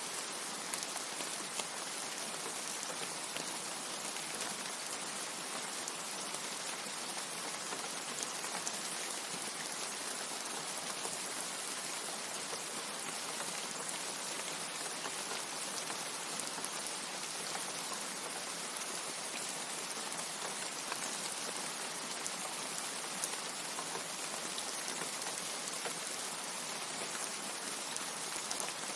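Steady rain: a dense, even hiss of falling water with scattered fine drop ticks and one slightly louder tick about two-thirds of the way through. There is no thunder.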